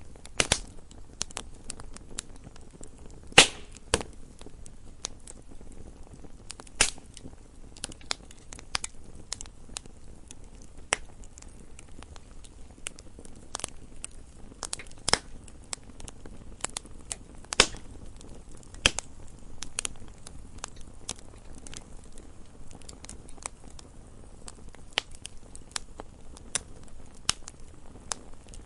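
Campfire crackling: irregular sharp pops and snaps from burning wood over a low steady hiss, with a few louder pops.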